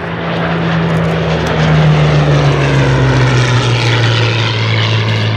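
A Hawker Hurricane's Rolls-Royce Merlin V12 engine on a flypast. The drone swells to its loudest about two seconds in, and its pitch drops as the aircraft passes.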